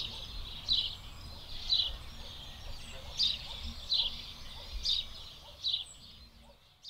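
A bird calling, repeating a short falling chirp about once a second, over faint outdoor ambience; it all fades out near the end.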